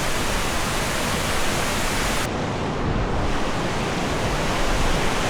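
Steady rushing roar of a waterfall, with the highest hiss dropping away about two seconds in.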